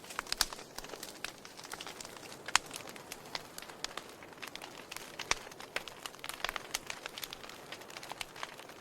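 Wood fire in a fireplace crackling: irregular sharp pops and snaps over a soft steady hiss, with a louder pop about two and a half seconds in and another a little after five seconds.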